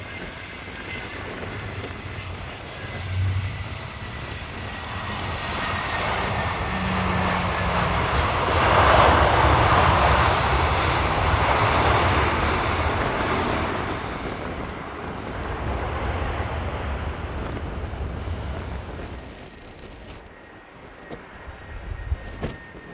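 Airbus A320 jet airliner on landing approach passing the microphone: its engine noise builds to a peak about nine seconds in and then fades, with a faint steady high whine over it. Gusty wind rumbles on the microphone. Near the end a cut brings in quieter, distant jet noise.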